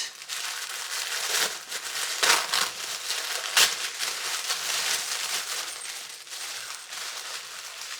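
Packaging crinkling and crackling as a pair of motorcycle gloves is handled and unwrapped, with a few louder crackles in the first half that thin out toward the end.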